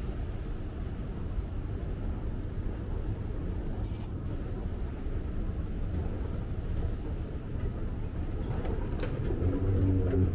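Steady low rumble of a vehicle's running engine with road or hull noise, a low engine hum growing a little louder near the end.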